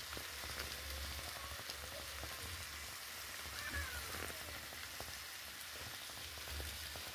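Chicken legs, onions and green peppers frying in a pan: a faint, even sizzle with light crackles.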